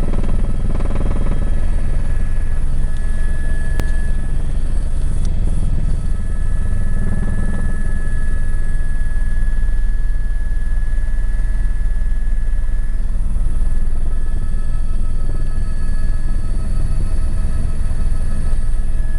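Helicopter running close by: a loud, steady rotor beat with a thin steady whine above it.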